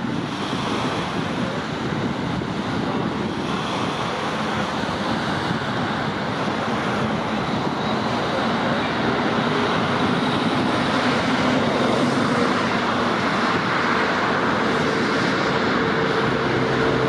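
Steady road-traffic rush, slowly growing louder, with a motor's low hum coming up in the second half.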